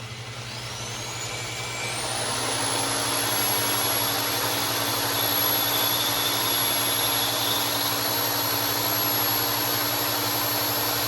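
Electric drill with a 17/64-inch bit spinning up, its whine rising in pitch over the first couple of seconds, then running steadily at a high pitch while drilling.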